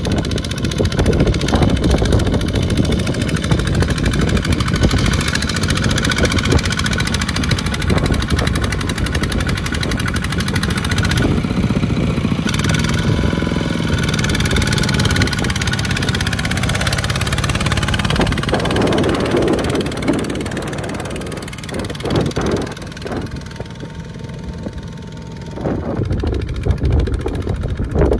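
Mini farm tractor engine running hard with a rapid chugging beat. It drops back for a few seconds near the end, then picks up again.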